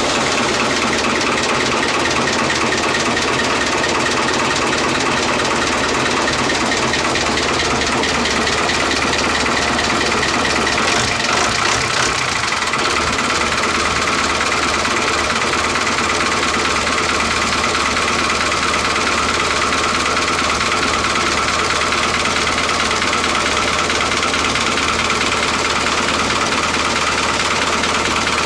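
Small electric motor running steadily with an even buzzing whir.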